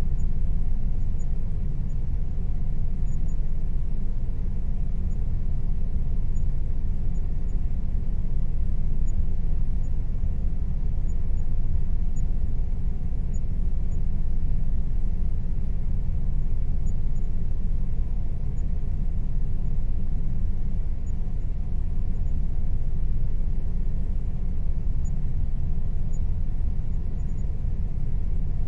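Air conditioner running with a steady low rumble, with a faint steady hum above it.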